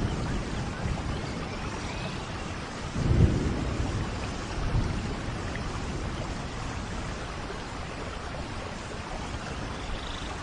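Steady rainfall with rolling thunder. The loudest is a deep rumble about three seconds in that fades over a couple of seconds, with a smaller rumble shortly after.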